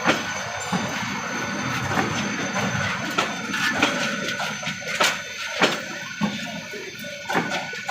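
Bangladesh Railway passenger train running, with a steady rumble and sharp clicks of the wheels over rail joints at uneven spacing.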